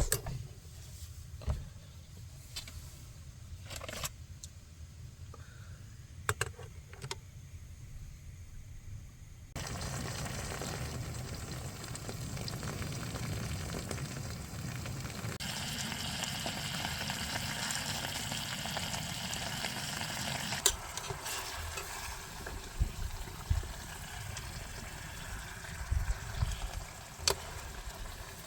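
Food frying in a pan on a portable camping stove: a few clicks and knocks of utensils over a low burner hum, then a steady sizzle that starts suddenly about ten seconds in, with occasional sharp clicks.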